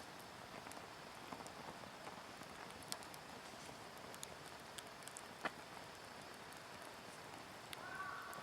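Wood fire crackling, with scattered sharp pops over a steady soft hiss; one louder pop about five and a half seconds in. A steady high tone starts near the end.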